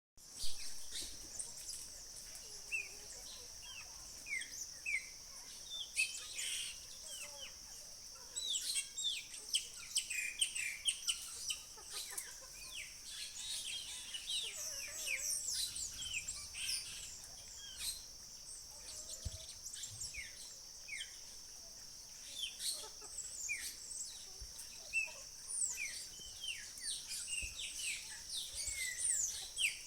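Many small birds chirping and calling, with quick, repeated, falling chirps throughout, over a steady high-pitched drone.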